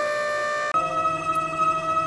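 Synthetic cartoon sound effect: a steady, held electronic tone that switches about three-quarters of a second in to a slightly higher steady tone with a faint wavering pulse.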